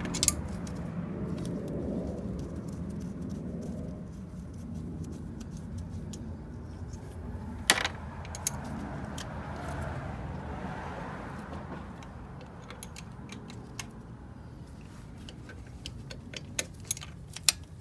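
Hand tools on the Honda Civic's intake manifold bolts: scattered metallic clinks and clicks of a socket and ratchet as the bolts are loosened. One sharp clink comes about eight seconds in, a quicker run of clicks near the end, and a steady low hum runs underneath.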